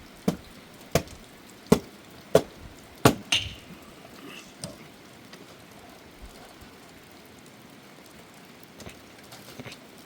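Six sharp blows of a tool striking something hard, evenly spaced about two-thirds of a second apart in the first three and a half seconds, then a few faint knocks, over steady rain.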